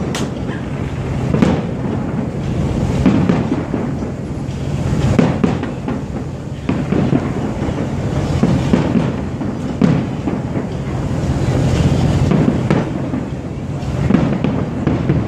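Aerial firework shells bursting overhead in a display, a sharp bang every one to three seconds, with a steady low rumble between the bangs.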